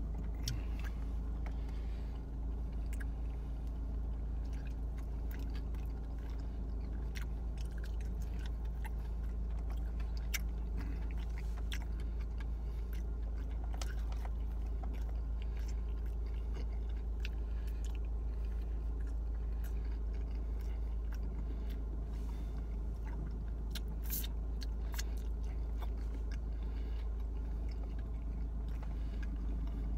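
A person chewing and biting pizza close to the microphone, with scattered mouth clicks and smacks, over a steady low hum.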